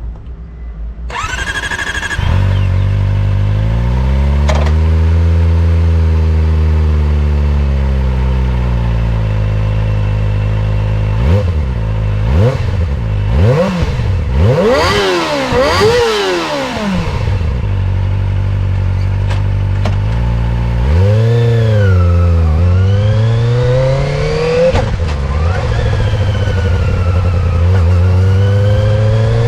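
Kawasaki Ninja ZX-25R's 249 cc inline-four is started with a brief starter whine about a second in and settles into a steady idle through its stock muffler. In the middle it is revved hard in a string of quick throttle blips, the pitch shooting up and falling back. Near the end come slower, longer rises and falls in revs.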